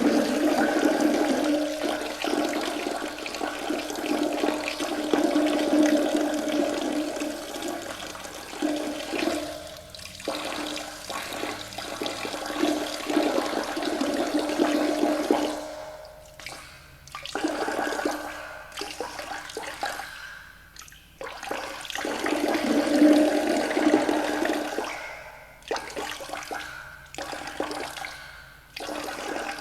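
Toilet flushing: rushing water that starts abruptly and runs in surges, dying down and swelling again several times.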